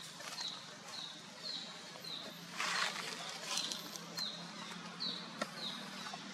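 A bird repeating a short, high, falling chirp about twice a second, with a brief rustle about two and a half seconds in.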